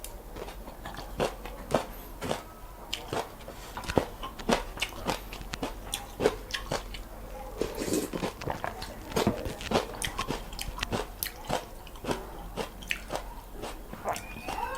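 Close-miked mukbang eating sounds: irregular crunchy bites and chewing of noodles, a few sharp clicks each second. A cat begins to meow right at the end.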